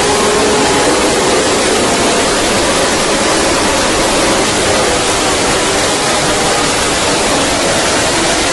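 Loud, steady rush of noise from racing motorcycles at trackside, with a faint engine note fading away in the first couple of seconds.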